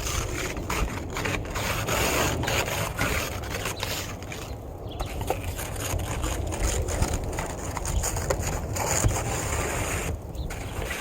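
Snow being scraped away in quick repeated strokes, with wind rumbling on the microphone.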